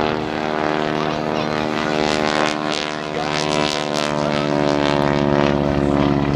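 Propeller airplane engine droning steadily overhead, with a rushing sound that swells and fades about two to four seconds in as the airplane passes.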